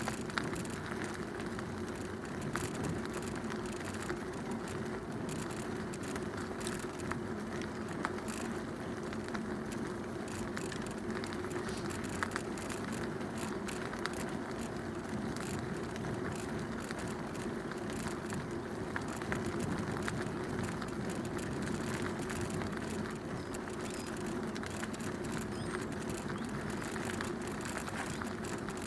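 Bicycle ridden along a canal towpath: steady tyre noise on the path surface, with many small crackles and ticks throughout.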